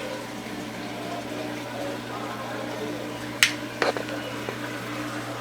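Aquarium filter or pump running with a steady low hum and water bubbling in the tank. A sharp click about three and a half seconds in, then a few fainter clicks.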